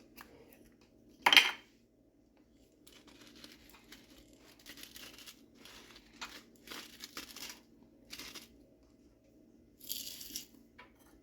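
Salt being added to a cream sauce in a pan: a sharp knock about a second in, then scattered short scratchy, rustling noises and a brief hiss near the end, over a steady low hum.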